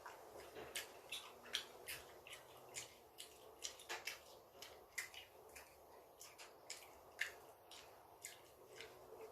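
Close-up chewing and eating sounds: soft wet mouth clicks and smacks, irregular, a few each second.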